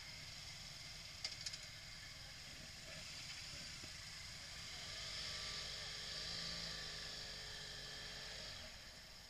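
Faint outdoor background with a vehicle engine passing at a distance: it swells about halfway through and fades near the end. A few short clicks about a second in.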